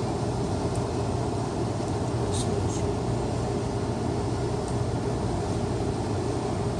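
Steady low mechanical hum with a constant rumble underneath, unchanging throughout.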